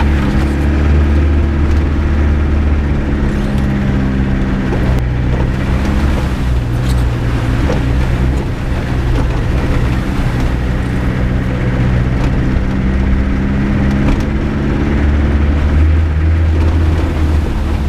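UMM off-road 4x4's engine running steadily as it drives along a rough dirt track, with a few sharp knocks as it goes over bumps. The engine note eases off in the middle and picks up again near the end.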